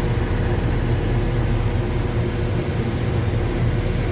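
Steady low drone of a Volvo L70H wheel loader's diesel engine and front snow-blower attachment running, heard from inside the cabin.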